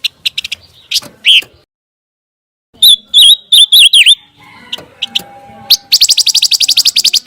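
Close, clear recorded song of a pancawarna songbird. It opens with sharp single chirps, then after a short pause gives a run of quick slurred whistles about three seconds in, and finally a fast trill of rapidly repeated notes, about a dozen a second, through the last second or so.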